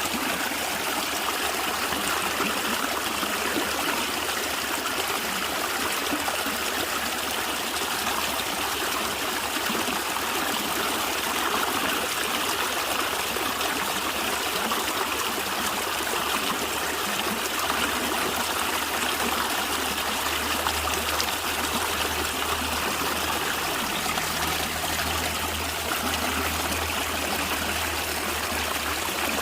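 A natural stream running and gurgling over stones in a steady, even rush. A low hum rises beneath it in the second half.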